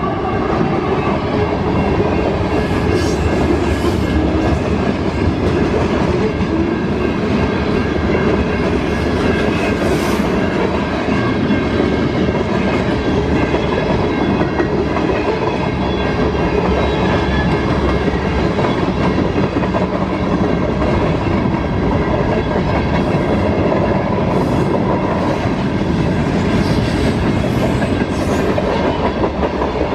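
CSX mixed freight train rolling past, steel wheels clacking over rail joints with a steady, loud rumble and a few sharp metallic clicks.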